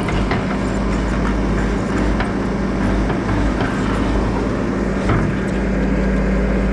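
An engine running steadily, a constant low drone with scattered faint clicks over it.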